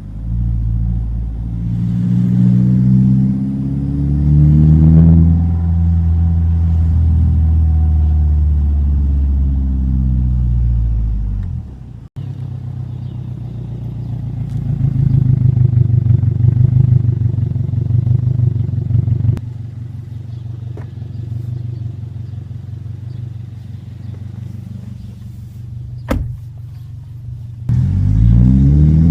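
The 2025 Subaru WRX tS's turbocharged 2.4-litre flat-four under way: it pulls up through the revs with a rising pitch, falls back, then runs steadily at cruise. It climbs in pitch again near the end, and a sharp click sounds a few seconds before.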